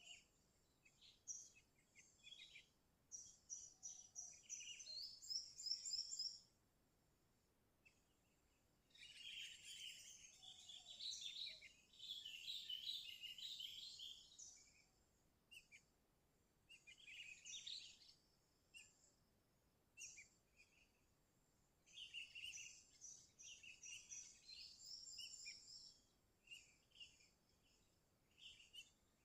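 Sooty-headed bulbul (kutilang) song: bursts of quick, chattering, high chirpy phrases with short pauses between them. This kind of lively song is used as a lure call to provoke other bulbuls into singing.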